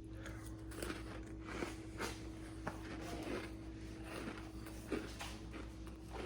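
Soft, irregular small clicks and taps, roughly one a second, over a steady low hum. These are quiet handling or eating-and-drinking noises between sips of a milkshake.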